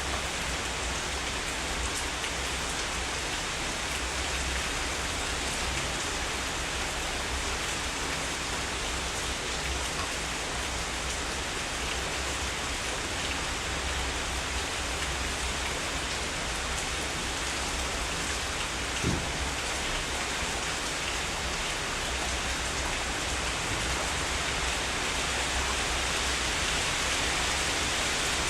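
Heavy rain falling steadily, a dense even hiss with individual drops ticking through it. One sharper drip tick stands out about two-thirds of the way through.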